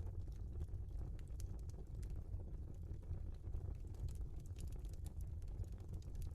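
Wood fire burning in a fireplace: a steady low rumble with many small, irregular crackles and pops from the burning logs.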